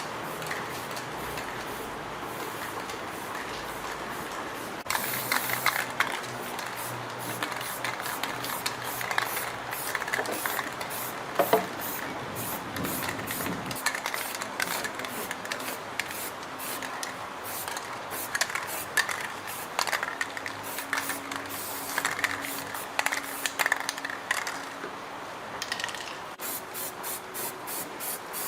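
Steady spray hiss, then irregular scrubbing and clicking, as of engine parts being sprayed and scrubbed clean. Near the end it turns into quick, even strokes, about five a second.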